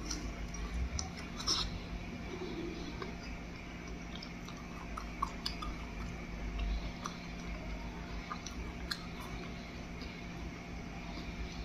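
Close-up mouth sounds of a person biting into and chewing a soft scallion pancake, with small wet clicks scattered throughout over a faint steady hum.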